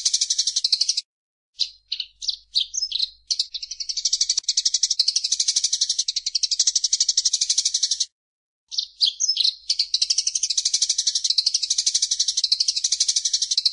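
A songbird singing long, very fast, high rattling trills. Twice the song cuts off abruptly and picks up with a short run of sharp separate chirps before the trilling resumes.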